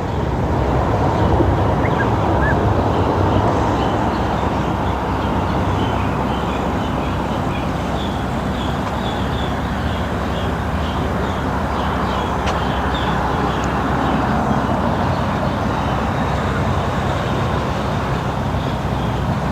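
A metro train running past on its track: a steady rumble and hiss, a little louder a few seconds in.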